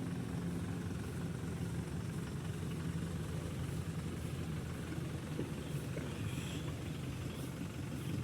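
Engine running steadily, a low even drone with no revving.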